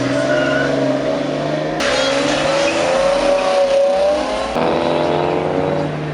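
Car engines running and revving, the engine pitch rising and falling, with the sound changing abruptly twice as one engine gives way to another.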